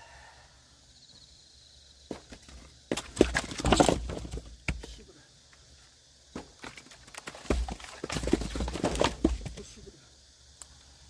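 Clattering and knocking of wood, in two bursts of many quick knocks, one about three seconds in and one about eight seconds in.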